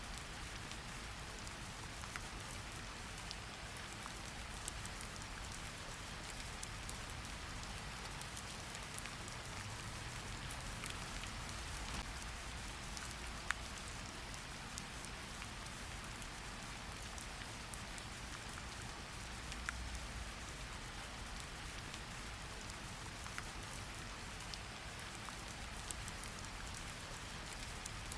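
Steady rain falling on a surface, an even hiss with scattered sharp drop ticks and a low rumble beneath.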